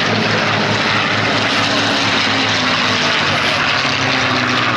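Piston-engined warbirds flying a display pass: a loud, steady propeller-aircraft engine drone.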